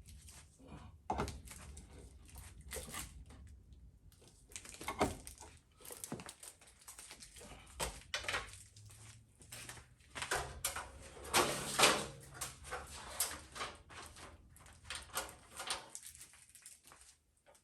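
Handling noise: a run of scattered clicks, knocks and scrapes as things are picked up and moved, with a longer, louder scrape about eleven seconds in.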